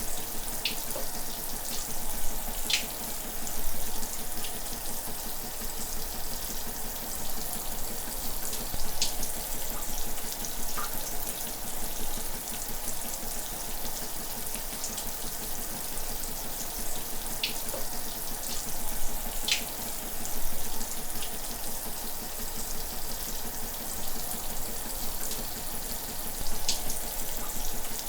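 Shower water running steadily, an even spray hiss with a few sharp splash ticks scattered through it.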